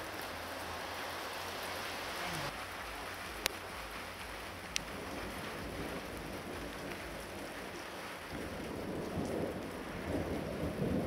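Steady rain hiss from a thunderstorm downpour, with two sharp clicks a few seconds in and an uneven low rumbling in the last few seconds.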